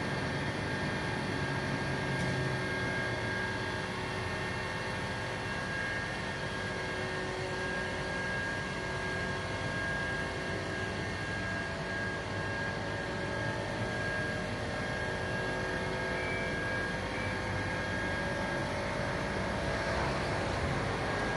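A steady mechanical drone of running machinery, with several constant whining tones over an even hum and no change in pace.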